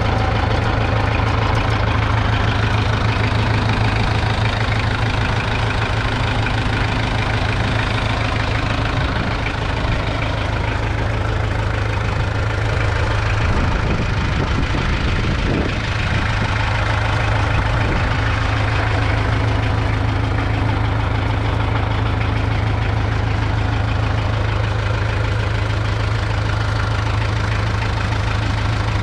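A 1960 Massey Ferguson 130's 1.8-litre four-cylinder diesel engine idling steadily, with a short unsteady patch about halfway through.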